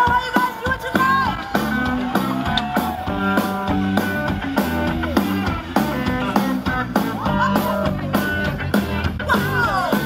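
Live band playing a song with a singer, guitar and a steady drum beat.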